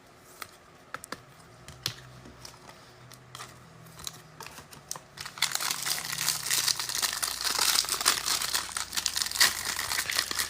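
A few light clicks and taps of handling, then from about halfway through, the plastic wrap on a trading card hanger box being torn off and crinkled in the hands.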